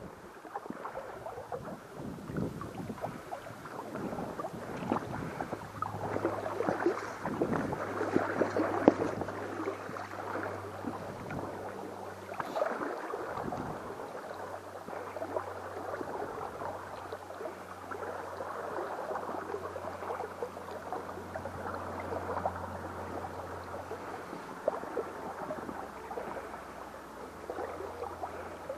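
Mountain stream water rushing and burbling over rocks, swelling louder for a few seconds and then running on steadily.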